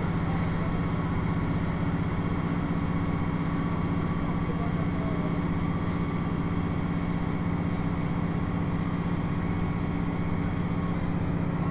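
Steady running noise of a diesel passenger train in motion, heard from inside the carriage: an even engine drone with a constant low hum under the rumble of the wheels on the track.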